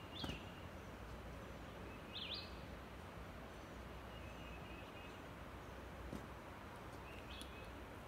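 Woodland birds calling: a few short, high, sweeping chirps a couple of seconds apart and a faint thin whistle, over a steady faint hiss of outdoor ambience.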